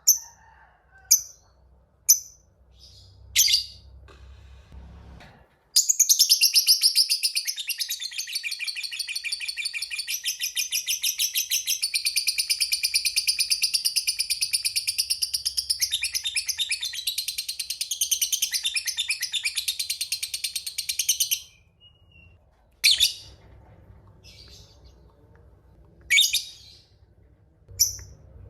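Lovebird calling in the 'ngekek panjang' style prized in fighter lovebirds. A few single sharp high chirps lead into one long, rapid chattering trill of about fifteen seconds, followed by more single chirps.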